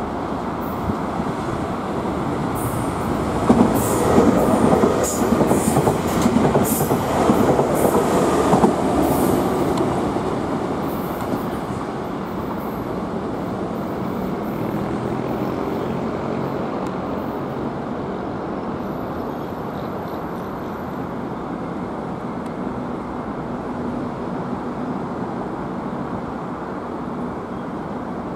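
Nankai 7100 series electric commuter train passing on the rails. Its wheels clack sharply over rail joints and points, loudest from about 3 to 10 seconds in. After that it settles into a steadier, slightly quieter running rumble as it draws away.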